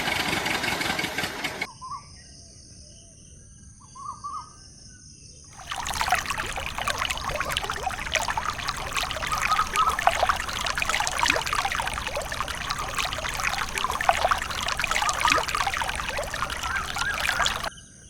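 Water pouring and splashing in a steady crackling rush, with a quieter break about two seconds in where a couple of short bird chirps are heard.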